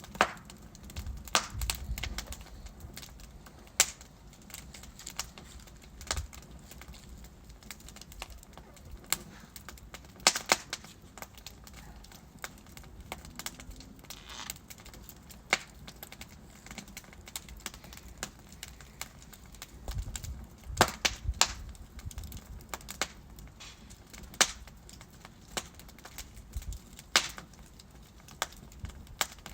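Wood fire of burning logs in a fireplace crackling: irregular sharp pops and snaps over a low steady rumble, bunched near the start, around ten seconds in, and around twenty to twenty-two seconds in.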